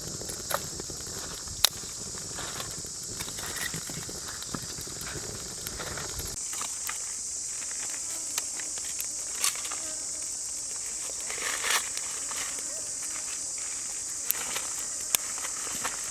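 Steady high-pitched drone of jungle insects, with scattered sharp clicks and rustles from handling and footsteps. A low rumble underneath cuts off about six seconds in.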